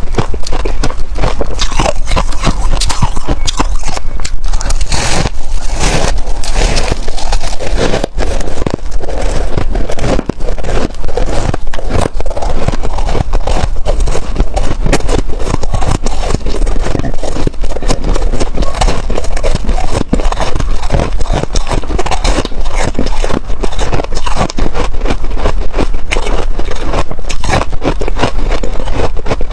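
White freezer frost crunching and scraping in a dense, unbroken run of quick crackles.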